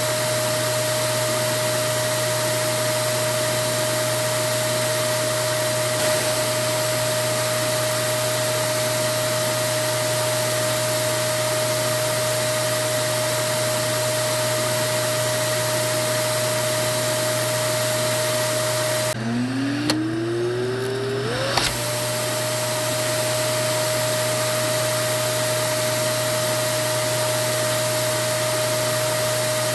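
Vacuum cleaner motor running steadily with a constant whine and airflow hiss. About 19 seconds in it briefly drops out with a couple of clicks, then spins back up with a rising whine over about two seconds before settling into the same steady run.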